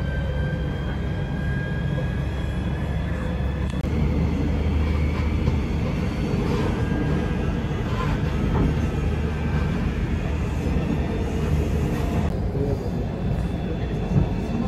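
A train running: a steady low rumble with a faint high whine over it, the sound changing abruptly twice.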